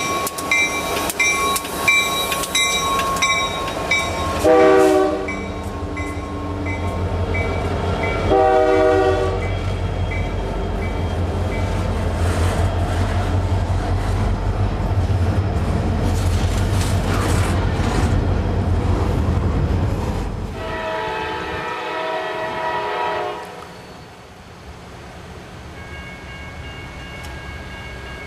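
CSX freight train passing close by: the locomotives and then double-stack container cars rumble steadily over the rails. A bell rings in the first few seconds, two short train-horn blasts sound about four seconds apart, and a longer horn sounds near the end as the rumble dies away.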